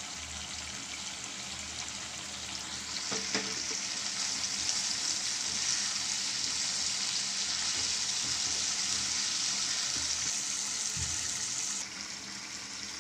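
Chicken pieces, chopped tomato and chilli powder sizzling in hot oil in a nonstick wok, a steady frying hiss. It grows louder about three seconds in and drops back near the end.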